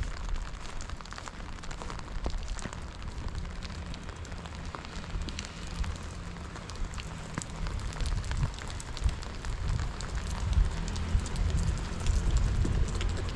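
Steady rain falling on wet paving, with many separate drop ticks, over a low, gusting rumble of wind buffeting the microphone that grows stronger near the end.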